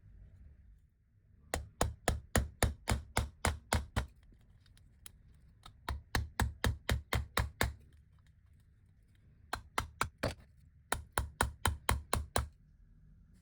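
Vintage Italian hand-cranked coffee grinder being worked, giving rapid, evenly spaced sharp clicks, about five or six a second, in four runs with short pauses between them.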